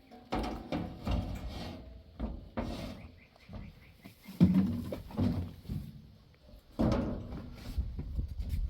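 A series of irregular knocks and thuds, the loudest about four and a half seconds in and again near seven seconds.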